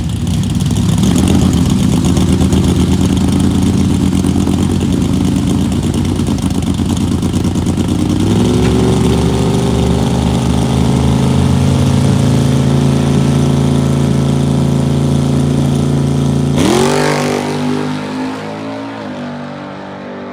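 Drag-racing vehicle's engine running hard at full throttle down the strip. Its note steps higher about eight seconds in. Near the end a quick rising sweep comes before the sound drops away.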